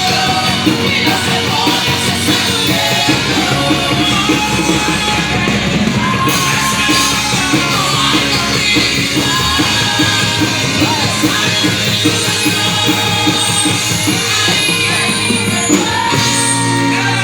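Live Christian worship band playing a rock-style song with a steady drum-kit beat, with singing over the band.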